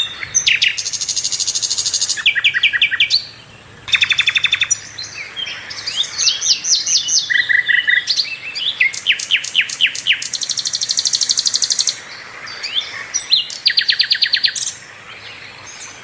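A sikatan londo flycatcher singing a loud, varied song of high chirps and fast rattling trills, with quick runs of repeated notes and a few short pauses.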